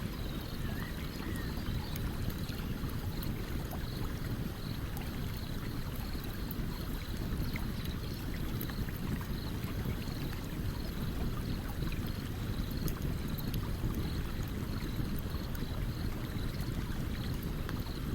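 A stream running steadily, with scattered small crackles and pops of a burning campfire over it.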